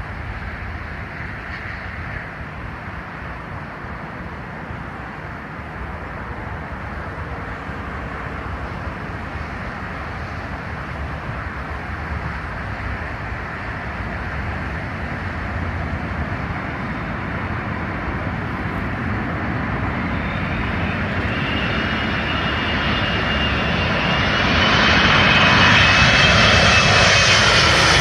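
Emirates Airbus A380 jet engines on landing approach. The sound grows steadily louder as the airliner nears, then becomes loudest in the last few seconds, with a high engine whine sliding slightly down in pitch.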